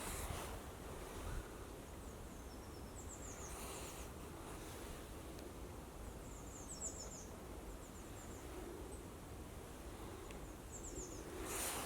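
Faint, high-pitched songbird calls: short runs of quick falling notes, heard about four times, over a low rumble of wind. A brief rustle comes near the end.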